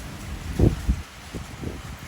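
Typhoon wind and heavy rain: a steady hiss of rain, broken by gusts of wind buffeting the microphone in low rumbles, the strongest just over half a second in and a few weaker ones after.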